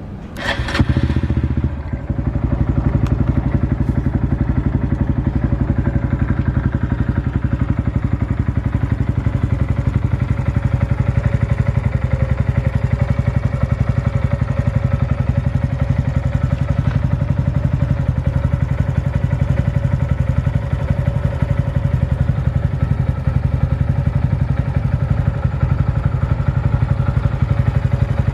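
Honda Monkey 125's single-cylinder engine, breathing through an aftermarket BEAMS muffler, starts up about half a second in and then idles steadily with a fast, even exhaust pulse.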